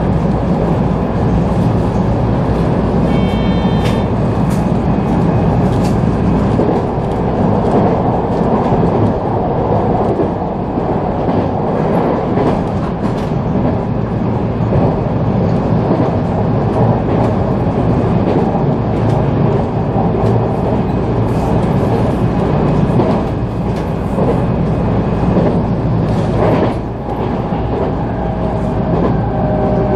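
Local electric train running at speed, heard from inside the passenger car: a steady rumble of wheels on the rails with running noise, and a faint rising whine near the end.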